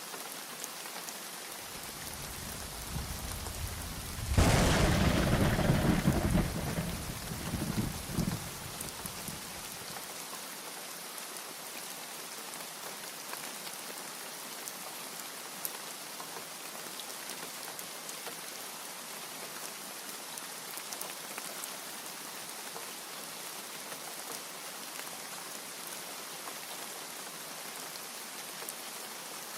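Steady heavy rainfall with a thunderclap: a low rumble builds about a second and a half in, breaks into a loud crack about four seconds in and rolls away over the next several seconds, leaving the rain alone.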